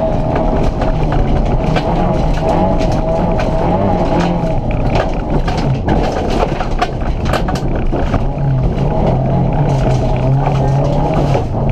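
VW Polo GT competition car's engine running hard, heard from inside the cabin, its pitch rising and falling as the driver works the throttle and gears. Many sharp ticks of gravel and stones strike the car's underside as it runs on loose dirt.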